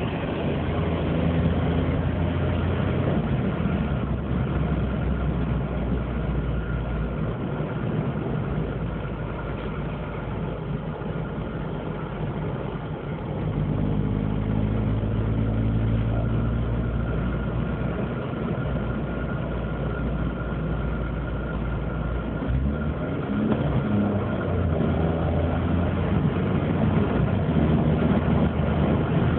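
Opel Corsa 1.0 12V's three-cylinder X10XE engine running with a deep drone from a crumbled, broken exhaust. The engine note shifts and rises about halfway through and again near the end.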